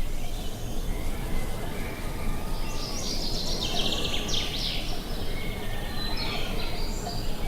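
Songbirds singing, with a burst of rapid chirping trills about three seconds in and more calls near the end, over a steady low rumble of wind.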